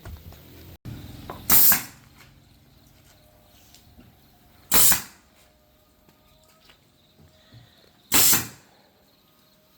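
Three short, loud bursts of rushing noise, about three seconds apart, over a faint low hum.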